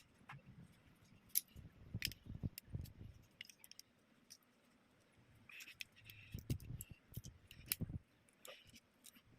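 Plastic toy building pieces being handled: scattered sharp clicks and small knocks, in two busier clusters with dull thumps, as pieces are picked up, rattled and pressed together.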